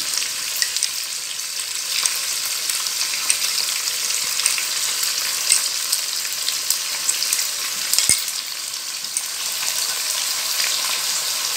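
Chicken pieces frying in hot oil in a pan, a steady sizzle with scattered small crackles, and one sharp click about eight seconds in.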